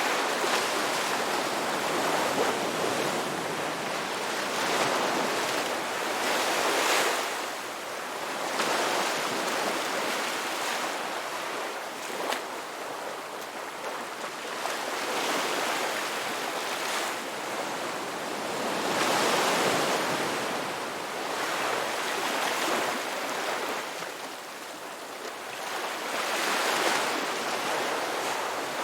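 Ocean waves breaking and washing on the shore, a continuous rush that swells and eases every few seconds.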